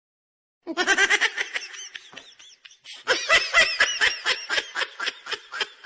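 Meme laugh sound effect: high-pitched laughter in quick, repeated pulses. It starts abruptly out of silence under a second in, fades, then breaks out again in a longer burst about three seconds in.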